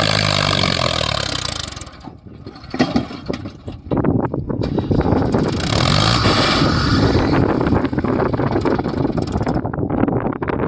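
Heavy diesel machinery engine running hard with a steady pitched drone for about two seconds. The sound then drops away briefly with some clicks, and a rough, rattly engine rumble builds back up for the rest of the time.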